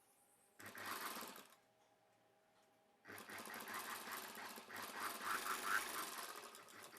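Sewing machine stitching a seam in two runs: a short burst about half a second in, then a longer run of about four seconds starting about three seconds in.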